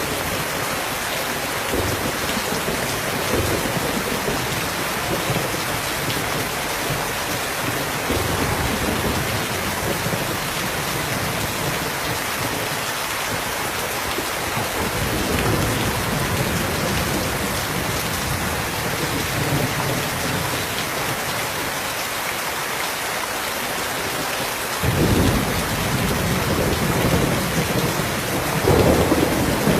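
Steady heavy rain falling, with low rolls of thunder swelling now and then; the strongest rumble comes in near the end.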